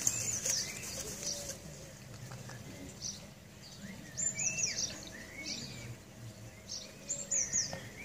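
A bird chirping high-pitched: short phrases of three or four quick, falling notes, repeated every second or few.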